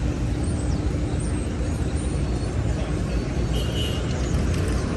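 City street traffic: a steady low rumble of passing vehicles, with a faint engine hum that fades out about halfway through and a short, faint high squeal about three and a half seconds in.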